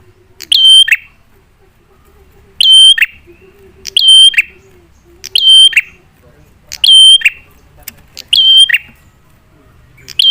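Prenjak (prinia) calling loudly: a short, high, ringing call that drops in pitch at its end, repeated about every one and a half seconds, six times. It is played as a lure call to make other prenjak answer.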